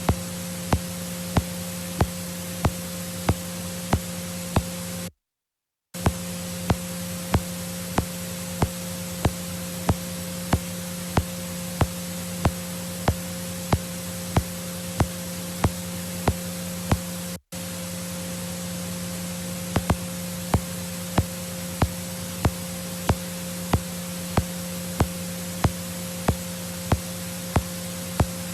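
Steady static hiss with a steady hum under it, and a sharp click repeating about one and a half times a second. The sound drops out completely for under a second about five seconds in, and cuts out again for an instant near the middle.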